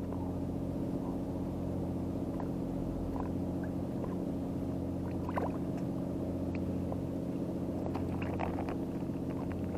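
Steady low drone of an idling engine, even in pitch throughout, with a few faint clicks and short squeaks in the second half.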